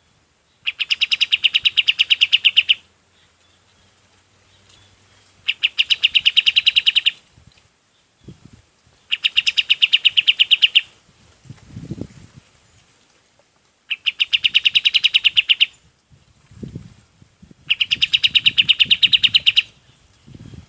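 Kapas tembak bird calling: five bursts of about 2 s each, every few seconds, each a fast rattling run of sharp, evenly repeated high notes.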